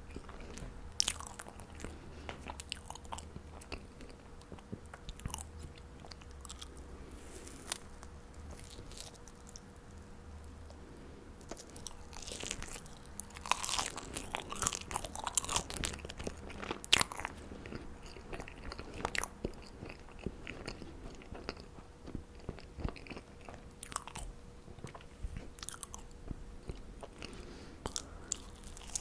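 Close-miked biting and chewing of marshmallows, with scattered sharp mouth clicks that come thickest from about 13 to 17 seconds in. A faint steady hum runs underneath.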